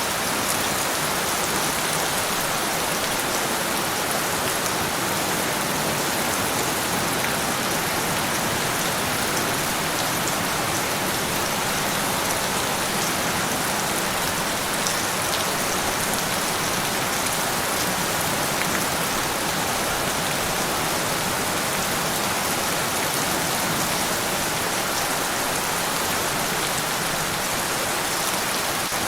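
Steady rain falling on a surface, an even dense hiss with scattered drop ticks and no change in level.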